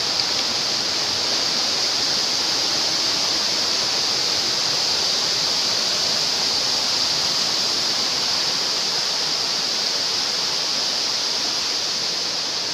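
Waterfall's falling water, a steady unbroken rushing that does not change.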